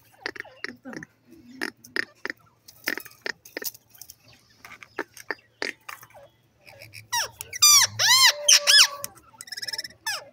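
Indian ringneck parakeet making a string of short clicks and chirps, then a burst of shrill, arching squawks about seven to nine seconds in, with one more short call near the end.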